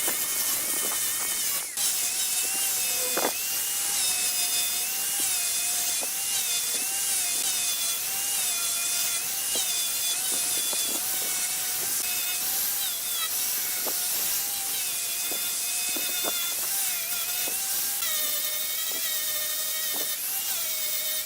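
Wood being cut on a spinning wood lathe with a hand-held turning tool: a steady hiss of shavings with a wavering whine underneath, and a couple of brief knocks early on.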